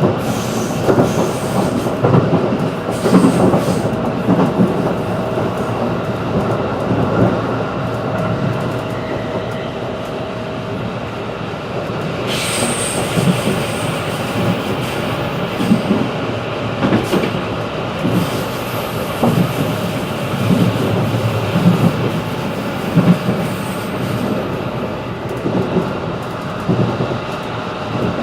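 Running noise inside a JR 211-series electric train: a steady rumble of wheels on rail with irregular knocks over the rail joints. About twelve seconds in, a brief high squeal from the wheels.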